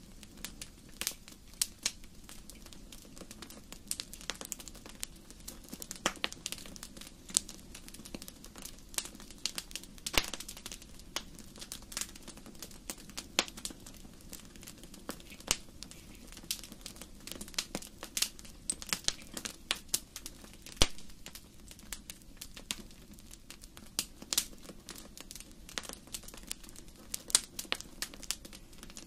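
Wood fire crackling in a fireplace: irregular sharp pops and snaps, several a second, over a low steady background.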